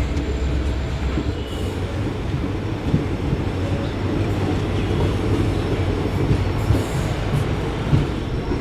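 Passenger train coach rolling slowly along a station platform, heard at the open doorway: a steady low rumble of wheels on track with a few light knocks, as the train pulls in to stop.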